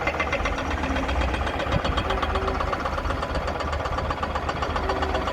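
Hyundai HX220S excavator's diesel engine running steadily, with an even rapid beat.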